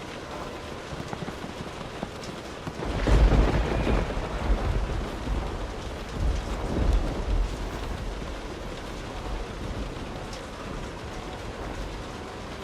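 Steady rain falling, with a thunderclap about three seconds in that breaks loudly and then rolls on in swells of deep rumbling for several seconds before fading back under the rain.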